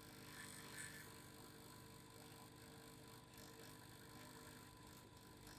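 Faint, steady vibrating hum with a few thin, steady tones running through it.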